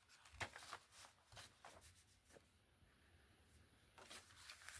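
Faint pencil marking and paper handling: a few short, light scratches in two small clusters, one soon after the start and one near the end.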